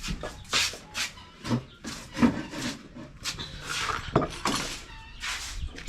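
Irregular rubbing and scraping from freshly cut aloe vera leaves being handled and sorted, with a couple of sharp knocks about two and four seconds in.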